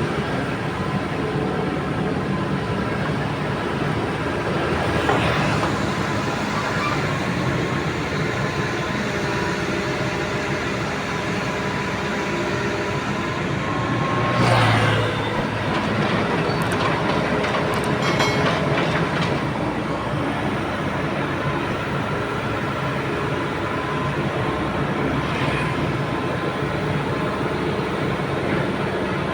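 Heavy machine engine running steadily, a constant mechanical rumble with a few short, louder rushes of noise about five seconds in, midway, and a few seconds after that.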